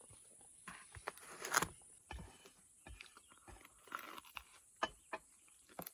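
Irregular light clicks, knocks and a short scrape, as of things being handled at camp, over a steady faint high insect drone.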